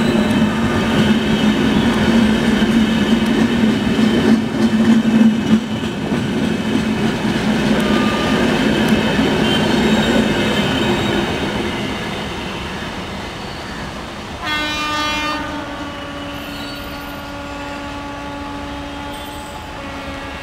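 Tejas Express passenger coaches running past on the rails, a loud steady rumble that eases off after about twelve seconds. About two-thirds of the way in, a train horn sounds sharply and then keeps sounding more softly.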